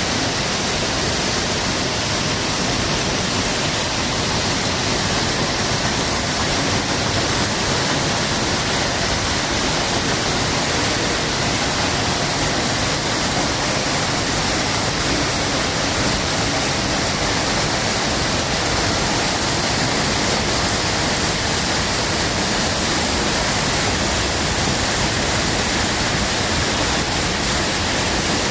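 Large waterfall thundering down in a steady, loud roar of falling water, a dense unbroken rush that fills the whole range from deep rumble to hiss.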